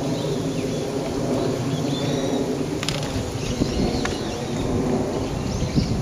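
Wild songbirds calling with faint, short chirps and whistles in woodland, over a steady low rumble. Two sharp ticks sound about three and four seconds in.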